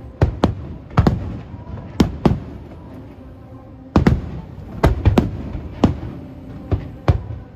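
Aerial firework shells bursting in a string of sharp booms, about a dozen over the span, with a short lull near the middle before a quick cluster of bursts.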